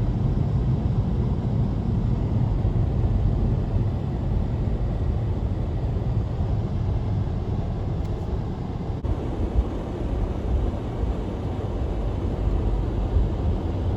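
Steady road noise inside a moving car's cabin on a highway: a low rumble of tyres and engine.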